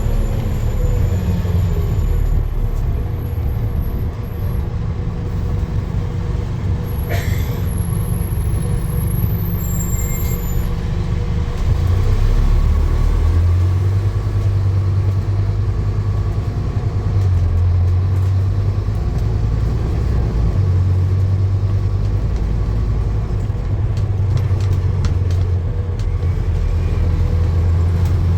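Steady low rumble of a running vehicle, with a faint steady whine above it.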